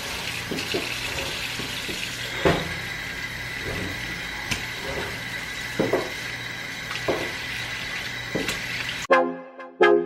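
Kitchen tap running into a sink as raw chicken is rinsed under it, with a few short knocks against the sink. About nine seconds in, the water cuts off abruptly and music with struck keyboard notes begins.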